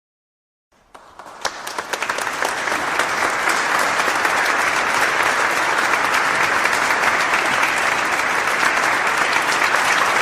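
Crowd applause: after a second of silence, clapping starts and swells over about two seconds into a steady, dense applause.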